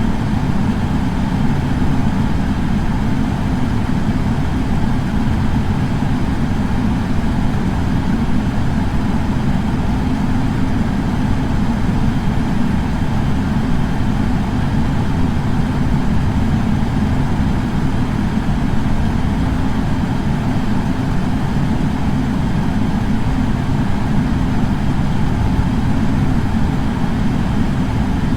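Air purifier fan running steadily: a constant rushing noise, heaviest in the low end, with no change in speed.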